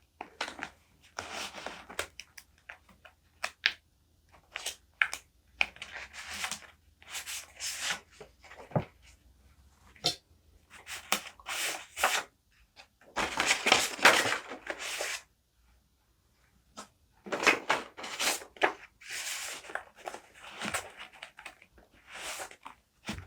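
Paper and stickers being handled for journaling: irregular rustling and crinkling with short sharp taps, and a longer stretch of rustling about halfway through.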